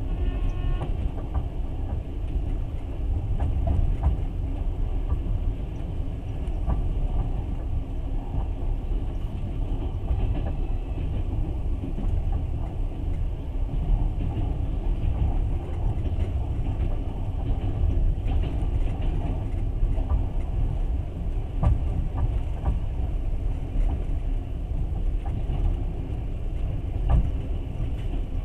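Steady low rumble of a moving passenger train heard from inside the carriage, with a few faint clicks now and then.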